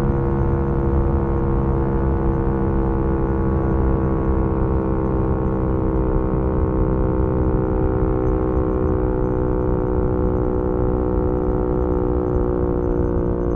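2018 Yamaha MT-125's single-cylinder engine, heard through its GPR aftermarket exhaust, running under way at a nearly steady engine speed.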